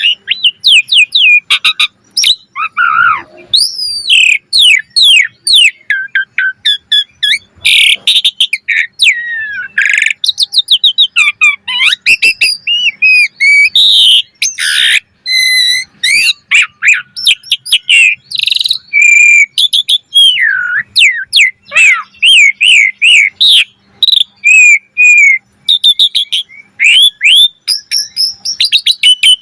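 Javan pied starling (jalak suren) singing a long, varied song: a rapid run of short whistles sliding up and down, mixed with a few harsh rasping notes.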